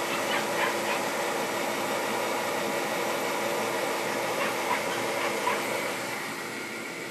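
Old kerosene bullet heater running with a steady rushing noise, while a husky whimpers a few short times, twice near the start and twice near the end.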